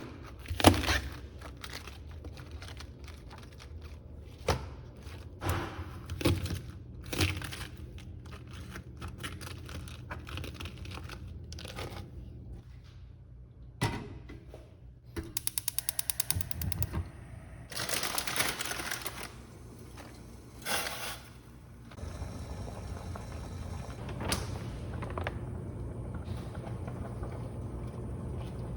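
Kitchen cooking sounds: a string of knocks and clicks from utensils and cookware, a quick run of rapid clicks midway, then a steady even hiss in the last few seconds.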